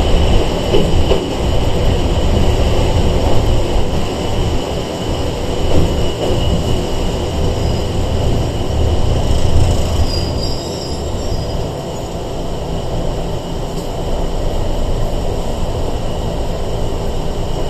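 Running noise inside a Sangi Railway 101-series electric train (a former Seibu 401 series): a deep rumble of wheels and motors on the rails with a steady high-pitched whine over it, easing slightly about halfway through.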